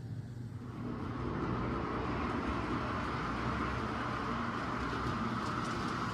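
Model train running on track, its wheels and motor rumbling as it grows louder about a second in and passes close by.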